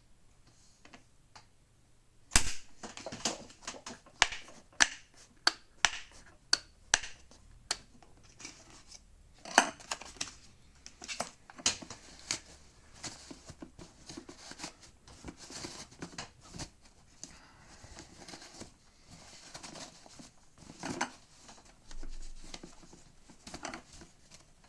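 Plastic parts of a vacuum cleaner and their packaging being handled: a series of sharp clicks and knocks with crinkling and rustling in between, the loudest knock about two seconds in.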